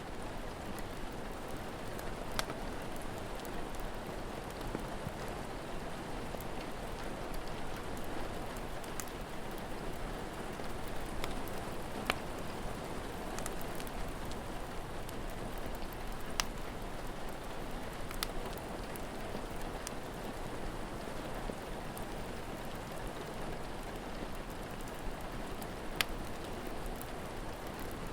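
Steady rain falling, mixed with a wood fire crackling, with a few sharp pops standing out, about five in all.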